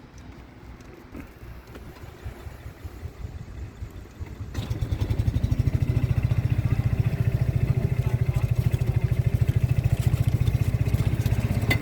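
A vehicle's engine running quietly, then louder about four and a half seconds in, with a fast, even low pulsing as the vehicle drives on.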